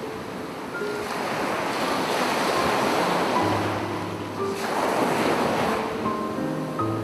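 Sea waves washing onto a beach, the surf swelling and easing off in long surges, with soft piano music playing over it.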